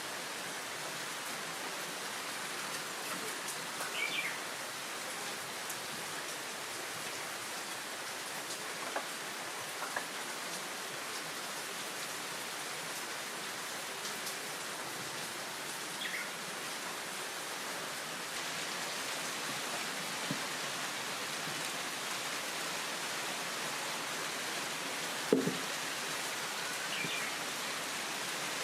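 Heavy rain falling steadily. A bird calls briefly three times, a few seconds in, midway and near the end, and a single sharp knock about 25 seconds in stands out above the rain.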